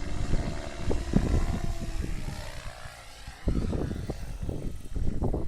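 Radio-controlled model airplane's motor and propeller droning as it flies past, the pitch drifting and fading out about three seconds in, over low rumbling and a few knocks.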